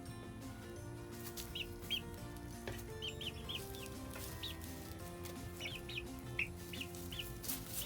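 Five-week-old Sapphire Gem chicks peeping, a scattered series of short high chirps, over soft background music.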